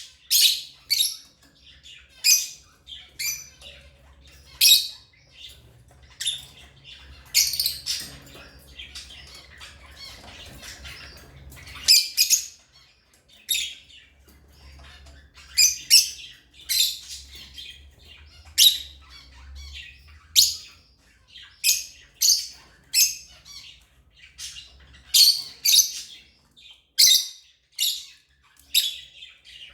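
African lovebirds giving shrill, squawking chirps, many short calls in quick succession.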